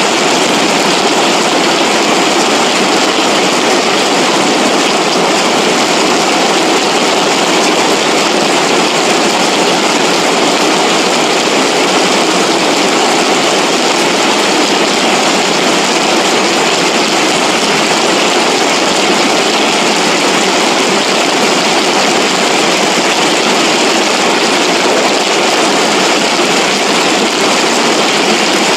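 Loud, steady rush of floodwater running down a rain-swollen ravine, with no change throughout.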